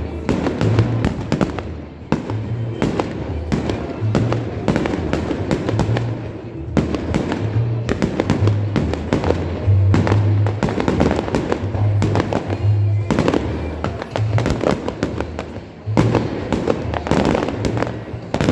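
Fireworks display: frequent bangs and crackling bursts, with music and a pulsing bass playing beneath them.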